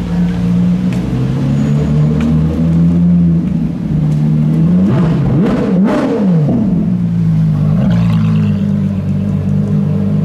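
Car engines running at low revs with a steady drone; about halfway through, one engine's note briefly climbs and falls back.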